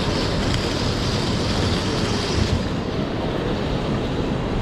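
Train noise: a steady rumble, with a higher hiss that stops about two and a half seconds in.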